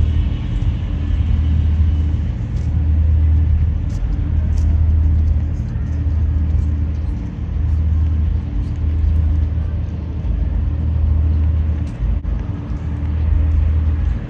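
Deep, throbbing bass from an outdoor festival sound system, heard as a low rumble that swells and eases every second or two, with little of the music above it audible.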